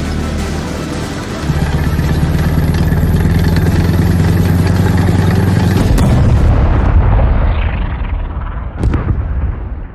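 A heavy engine-like drone that steps up in level about a second and a half in, broken off by a sudden hit about six seconds in that leaves a rumble dying away. A second sharp bang comes near the end as the sound fades out.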